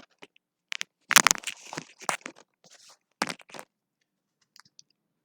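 Irregular close handling noise: rustling and scraping with a few sharp knocks and clicks, which dies away near the end.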